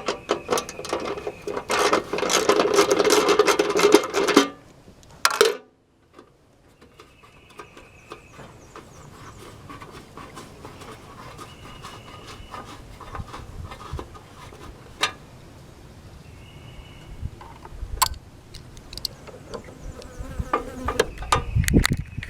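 A housefly buzzing close by, loudest and roughest in the first few seconds, then fainter and on and off, with a few clicks and taps of handling.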